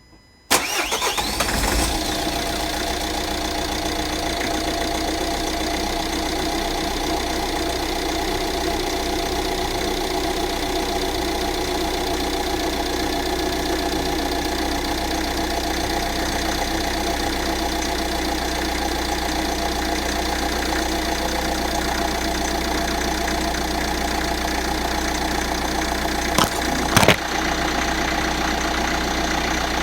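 Renault R9M 1.6 dCi four-cylinder diesel cold-starting at about −2 °C with one dead glow plug: it catches about half a second in and settles straight into a steady idle. Two brief sharp knocks come near the end.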